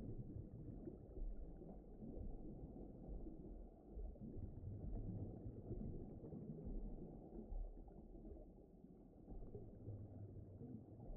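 Faint underwater ocean ambience: a low, muffled rumble that slowly swells and eases.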